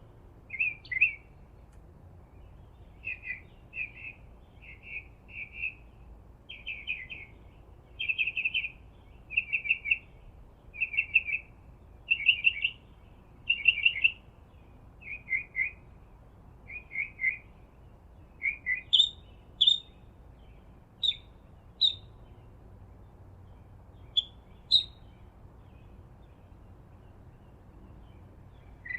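A songbird chirping: short, sharp notes repeated about once or twice a second, turning to higher, thinner notes about two-thirds of the way through, then stopping a few seconds before the end.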